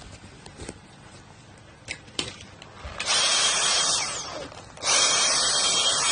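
Dyson vacuum cleaner switched on about three seconds in, running with a loud hiss and a thin high whine; it eases off briefly and comes back up near five seconds. A few light clicks and knocks come before it.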